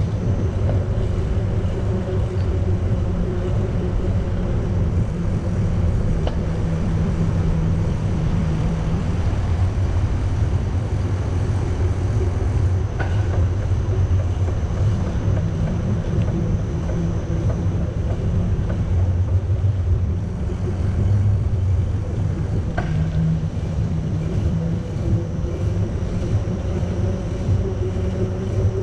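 Steady low rumble of riding a bicycle: tyres on the pavement and wind on the microphone, with a couple of faint knocks partway through.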